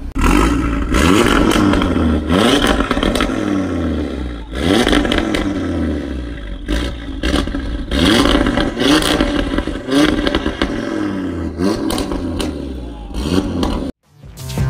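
Audi RS3 five-cylinder engine accelerating hard through the gears, its pitch climbing and then dropping at each upshift, again and again. There is a short cut-out near the end.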